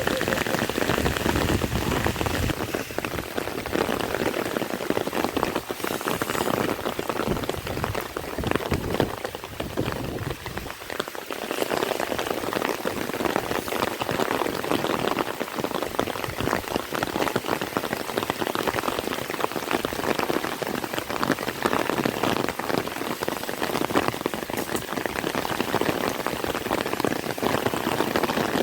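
Heavy rain falling, a dense spread of drop impacts that eases briefly about ten seconds in.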